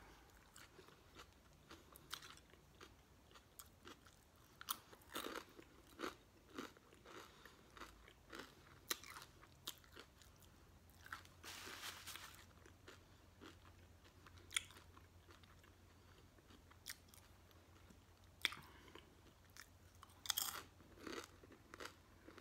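A person chewing a mouthful of cold cut sub sandwich close to the microphone: faint, with many short wet clicks and smacks, a brief hiss just before the middle and a run of louder smacks near the end.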